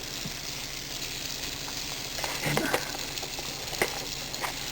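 Sunflower seeds roasting in a frying pan over a small log fire: a steady sizzling hiss, with a few light clicks as they are stirred.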